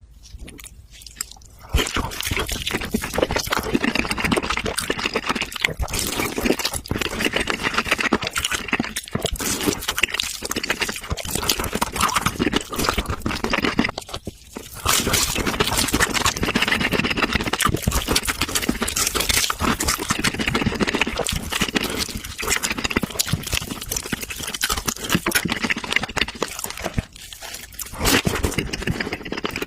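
Close-miked eating: a person chewing and crunching food, with wet mouth sounds, in a dense run of crackles that pauses briefly twice.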